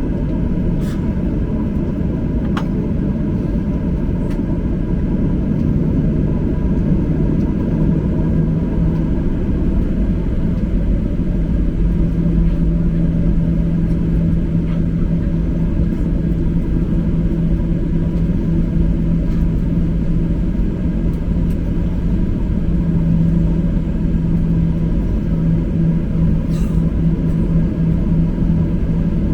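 Cabin noise inside a Boeing 737-800 rolling on the ground after landing: a steady loud rumble from its CFM56 engines at idle and the wheels, with a steady hum that comes up about seven seconds in.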